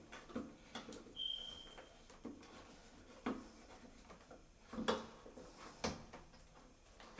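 Scattered knocks and clicks, the two loudest about five and six seconds in, with a brief high squeak about a second in.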